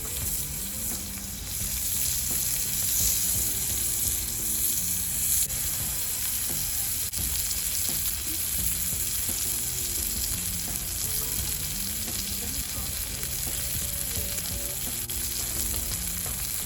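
Steak frying over a campfire, sizzling steadily throughout.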